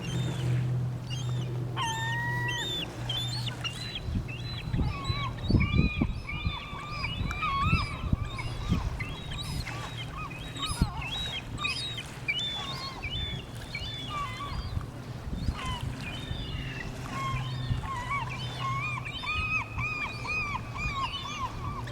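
Several gulls calling, short yelping notes repeated in quick runs and overlapping at different pitches, with one longer drawn-out call about two seconds in. A steady low hum runs underneath.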